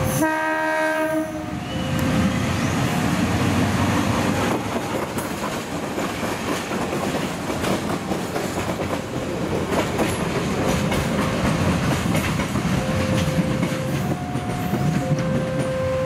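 A diesel locomotive, a KAI CC206, sounds its horn once for about a second and a half. Then it and a loaded flat wagon run past with the engine running and the wheels clattering over the rail joints.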